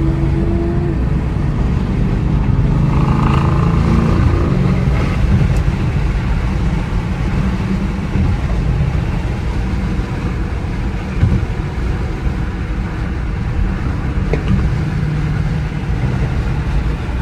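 Car engine and road noise while driving: a steady low rumble, with the engine's pitch shifting down and then up over the first few seconds.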